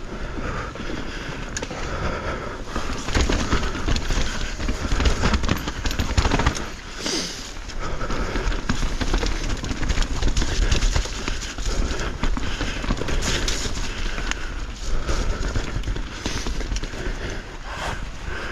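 Mountain bike being ridden over rough, rooty trail: tyres rolling over dirt, with a constant clatter of rattling chain and frame over bumps, and wind rumbling on the helmet camera's microphone.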